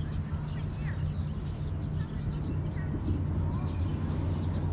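Small birds chirping in short, quick, falling notes over a steady low hum.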